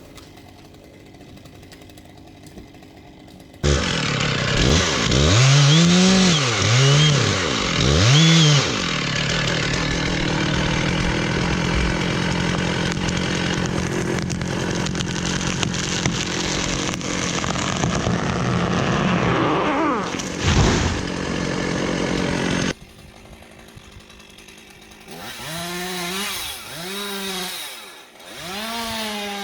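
Chainsaw starting abruptly, revving up and down three times, then running steadily under load as it cuts through wood. It cuts off suddenly, and after a short quieter stretch it revs up and down again near the end.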